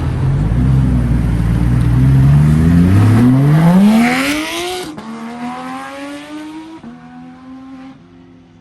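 A performance car accelerating hard from low revs. Its engine note climbs steeply and is loudest about four seconds in, then it shifts up several times as it pulls away and fades.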